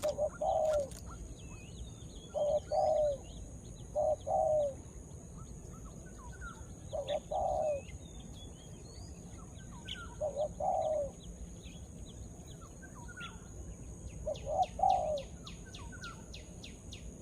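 Spotted dove cooing: short two-part coo phrases repeated every two to four seconds, about six in all. Small birds chirp at a higher pitch between the phrases.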